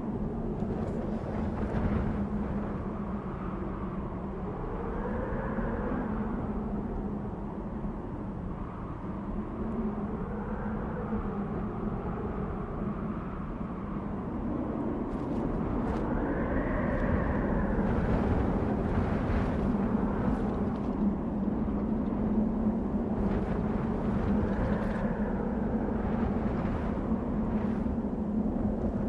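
Desert wind blowing in gusts: a rushing noise with a howl that rises and falls in pitch every few seconds, over a steady low drone. The gusts build louder about halfway through.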